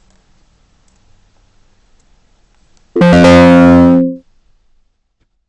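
A single loud synthesizer or electric-piano chord, about three seconds in, struck sharply and held for just over a second before cutting off. It is a musical sting laid over the recording.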